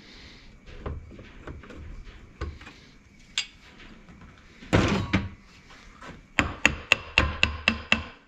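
Hammer knocking a part onto a Tofaş four-speed gearbox shaft: scattered knocks and a brief clatter, then a quick run of about eight sharp, ringing metal strikes near the end.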